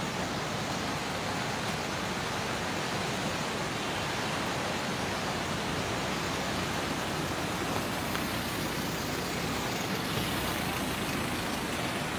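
Steady rush of fast-flowing floodwater, a continuous even roar of rising water.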